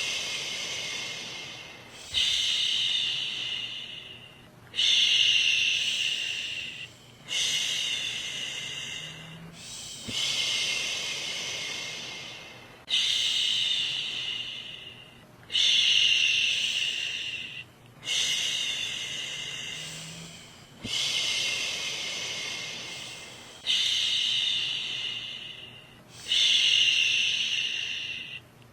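A woman shushing, "shhh", over and over to lull a baby to sleep. A new shush begins about every two and a half seconds, each starting loud and fading away.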